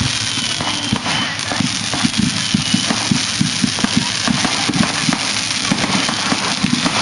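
Fireworks going off in a rapid, continuous barrage of bangs and crackling.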